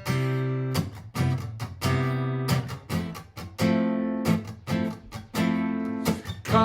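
Steel-string acoustic guitar, a Martin GPCPA4, strumming a rhythmic chord pattern, each strum sharp and ringing out, about one chord accent a second.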